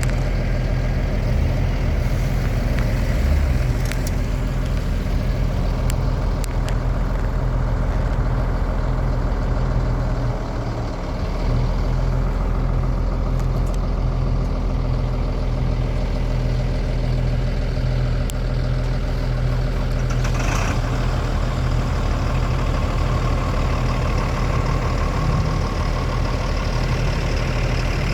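A 1997 Honda Gold Wing's flat-six engine idling steadily, with a brief dip in level about ten seconds in.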